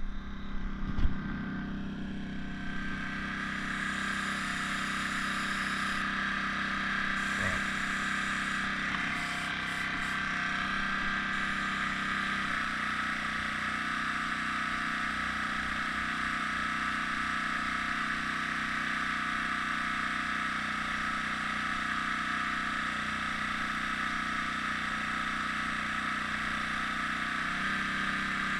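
Air compressor running steadily for the airbrush, a constant motor hum with a steady hiss above it.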